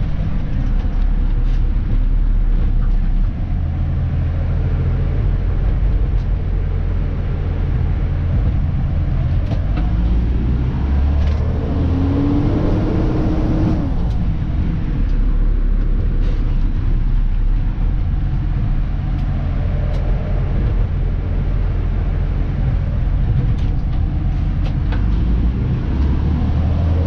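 Diesel engine of a Dennis Eagle Elite 2 refuse truck running steadily while the truck is driven. Its note climbs and drops back around the middle, and starts climbing again at the very end, as the truck accelerates.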